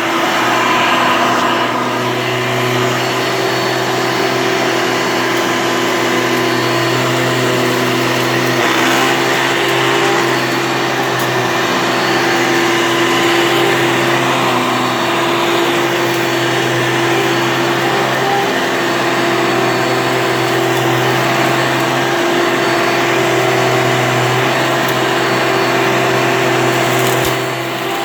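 Hoover Elite vacuum cleaner running steadily, its motor giving a constant hum over airflow noise, with a brief dip near the end.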